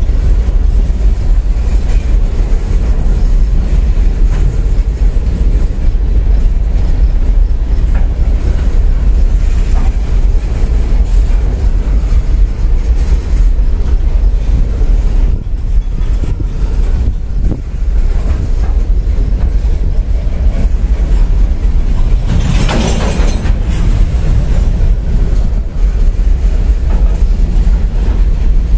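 CSX freight train of coal hopper cars rolling past at a grade crossing: a steady, loud rumble of steel wheels on the rails, with a brief louder burst of noise about three-quarters of the way through.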